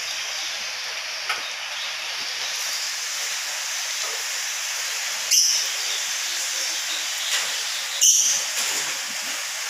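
Steady hiss of rain falling, broken a few times by short, sharp louder sounds, the loudest about five and eight seconds in.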